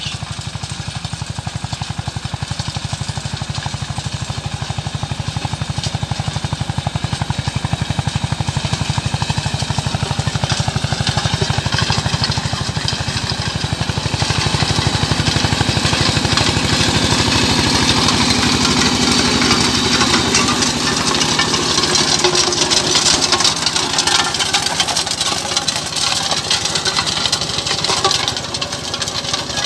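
Eicher 188 mini tractor's single-cylinder diesel engine running steadily with fast, even beats. A harsher high rattle builds in the second half.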